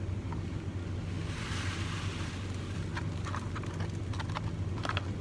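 Dry mashed-potato mix poured from its pouch into a plastic bag: a soft hiss starting about a second in and lasting about a second, followed by a few light crinkles of plastic packaging, over a steady low hum.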